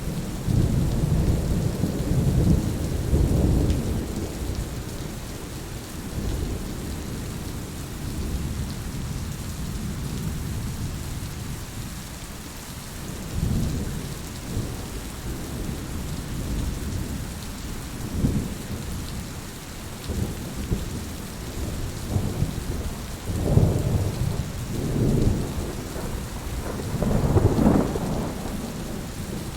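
Heavy steady rain with rolling thunder. Low rumbles swell up in the first few seconds, fade, and come back several times in the second half, the last and loudest near the end.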